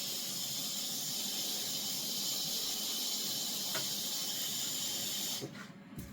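A steady high-pitched hiss that cuts off suddenly about five and a half seconds in.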